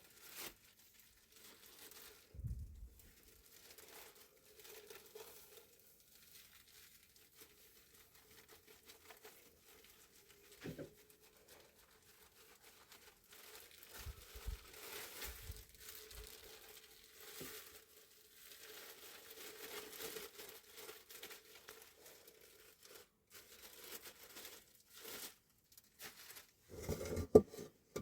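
Intermittent rustling and crinkling of something being handled, with a few soft thumps and louder knocks near the end.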